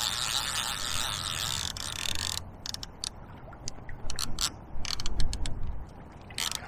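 Centrepin reel's ratchet check clicking as the spool turns: a fast continuous buzz for about two and a half seconds, then separate clicks at uneven spacing until near the end.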